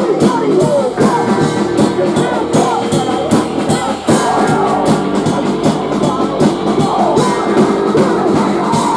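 Live post-hardcore band playing loud and dense, with electric guitars and a drum kit.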